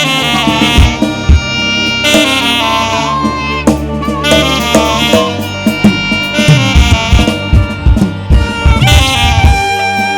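Saxophone playing a melody in short phrases of held notes over a live band with drums and a low sustained bass.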